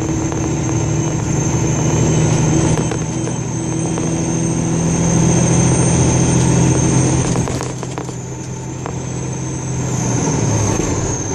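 Road vehicle driving along, with the engine running steadily and then easing off about three-quarters of the way through. A thin high whine sits over it throughout and slides down near the end, with a few short knocks and rattles.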